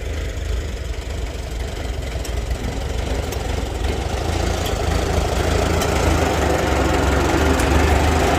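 1949 Chevrolet Fleetline's inline-six engine running at a low idle while the car creeps forward, growing louder over the last few seconds.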